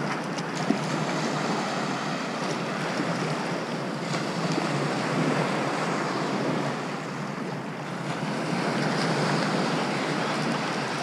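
Shallow sea surf washing and sloshing around the legs, swelling louder twice, with some wind on the microphone.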